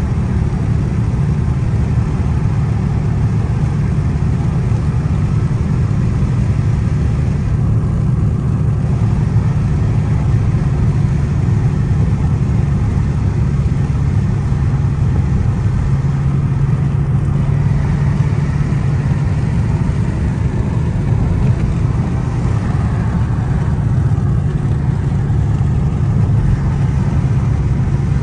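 Dodge Charger SRT Hellcat's supercharged 6.2-litre Hemi V8 cruising, a steady low drone with road noise, heard from inside the cabin. The drone grows a little stronger about halfway through.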